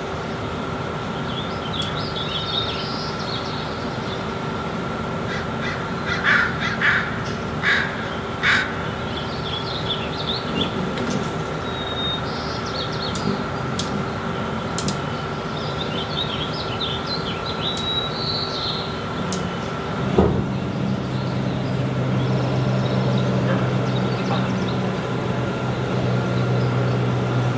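A bird gives four loud, harsh calls in quick succession about a quarter of the way in, over a steady background hum and scattered faint high chirps. About two-thirds of the way through, a sharp click, after which a lower steady hum takes over.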